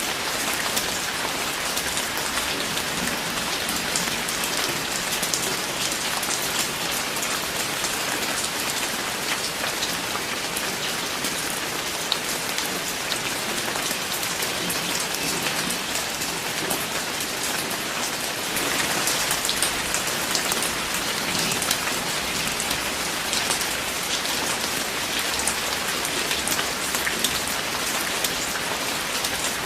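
Steady rain falling on a surface, a dense patter of many individual drops.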